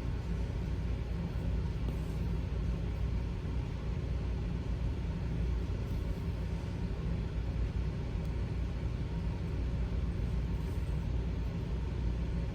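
Steady low background rumble, with a few faint brief scratchy sounds over it.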